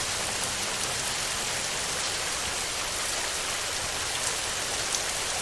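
Steady heavy rain falling on a tin roof, an even hiss with a few sharper drop ticks near the end.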